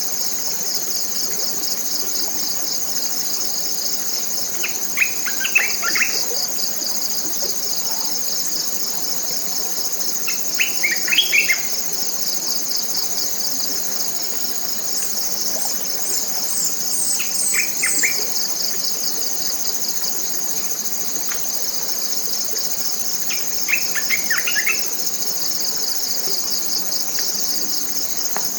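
Tropical forest insects keep up a continuous, high-pitched pulsing drone. Over it a bird gives short clusters of quick call notes four times, roughly every six seconds, and a run of very high chirps sounds around the middle.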